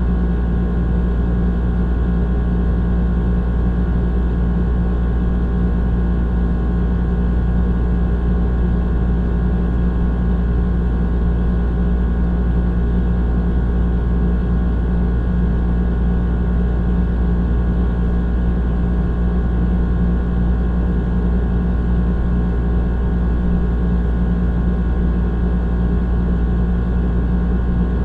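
Old air conditioner running steadily: a constant low hum and drone with several steady tones above it, unchanging throughout.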